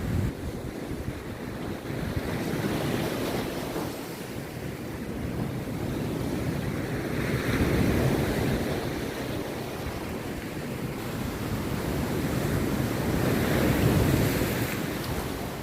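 Rough sea waves breaking on the shore, the surf swelling and easing in slow surges about every six seconds, with wind buffeting the microphone.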